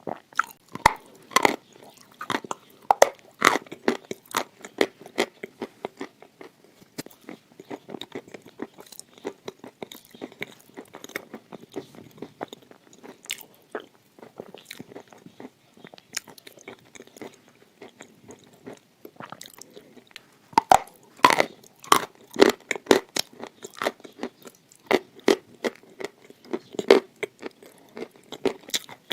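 Close-up crunching of someone biting and chewing pieces of edible red clay. The bites are sharp and crackly, with louder clusters of crunches at the start and again after about twenty seconds.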